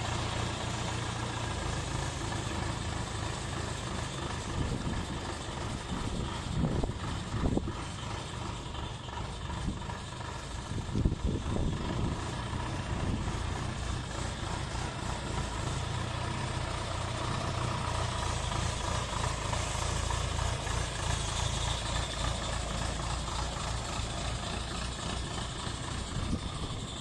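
Self-loading concrete mixer truck's engine running steadily, with a few louder knocks about seven and eleven seconds in.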